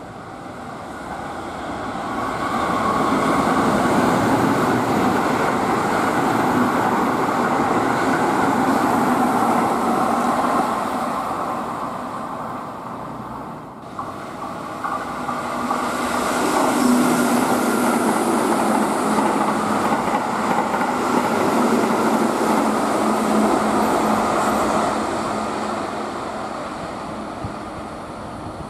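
Keihan electric trains at the station. A 13000 series train runs in, building up over the first few seconds and holding loud. After a sudden break about fourteen seconds in, another train runs past, loud for about ten seconds before fading away.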